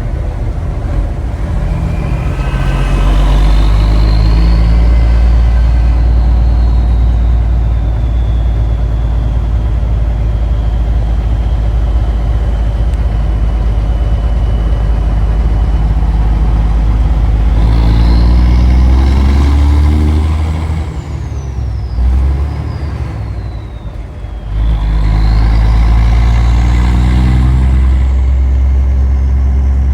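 Big-rig truck's diesel engine pulling hard, revs climbing and holding, with a high whistle gliding along above it. About two-thirds of the way through the revs drop away twice as it shifts gears, then climb again.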